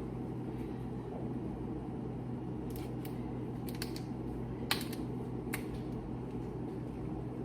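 About five short, light clicks and taps from a bottle of margarita mixer being handled and opened, spread out over a few seconds, over a steady low hum.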